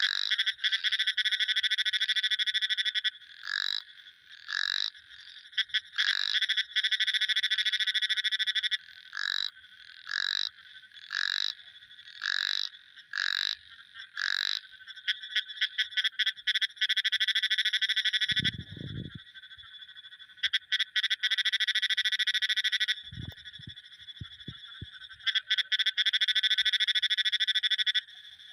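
Frogs calling: long, rapidly pulsed trills alternate with short single calls repeated about once a second, and the trilling stops and starts several times. A few dull low thumps come in past the middle.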